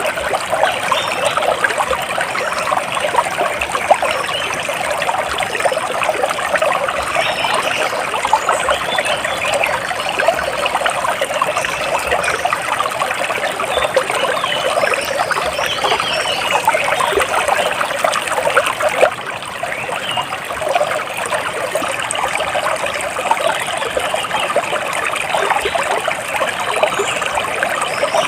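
Water trickling and splashing steadily, a dense babble of small splashes.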